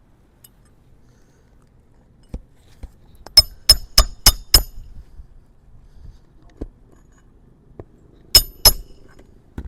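Hammer striking a roof snake shingle-repair tool to drive a roofing nail under a lifted shingle, with metal-on-metal clinks. There is a run of five quick blows, then a pause with a few faint knocks, then two more blows near the end.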